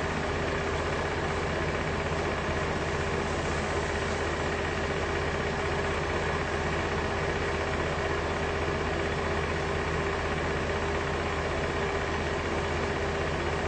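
A steady mechanical hum with an even hiss, unchanging throughout, like an engine running at idle.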